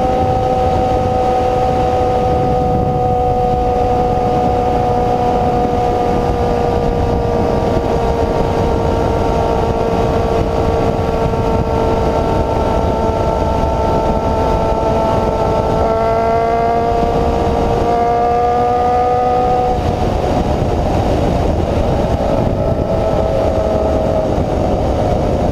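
Honda CB-1 400 inline-four with an open, unbaffled exhaust running at a steady high engine speed over a steady rushing noise. Its pitch sags slowly, then shifts up and down about two-thirds of the way through.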